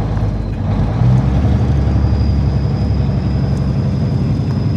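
Truck engine running under way, getting louder about a second in, with a faint high whine that comes in about two seconds in.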